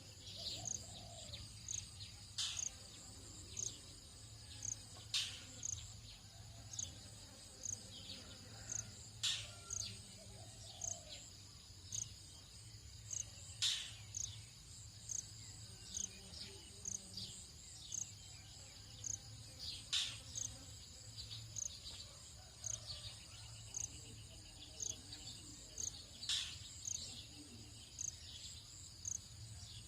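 Dawn chorus of tropical insects: a steady high buzz, with a short high chirp repeating about once a second. Sharp bird calls break in every few seconds over a low steady hum.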